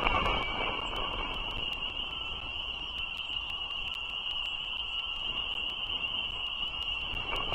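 A steady, continuous chorus of high-pitched frog calls over a low, even rumble.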